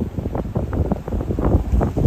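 Gusting wind buffeting the microphone: a rumbling, irregular flutter of rapid uneven pops and gusts.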